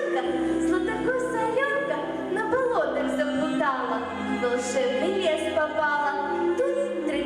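A song: a voice singing over instrumental accompaniment, with sliding and held notes.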